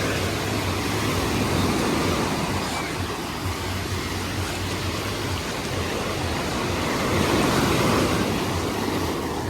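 Sea surf washing onto the beach as a steady rushing noise that swells twice, the second time about three-quarters of the way through and loudest.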